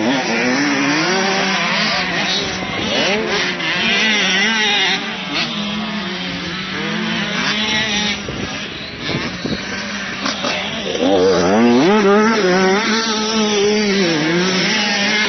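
Motocross bike engines revving up and down, several bikes heard at once, with a louder one climbing in pitch about eleven seconds in.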